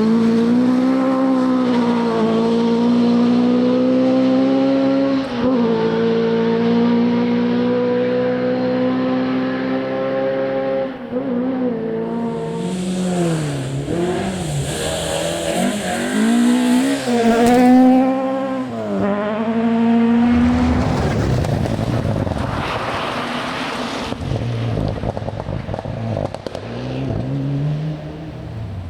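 A rally car's engine at full throttle on a stage, holding a high steady note for about ten seconds, then swinging through several lifts and rev rises as the car brakes and changes gear, followed by a noisy rush as it passes. Another engine note rises near the end.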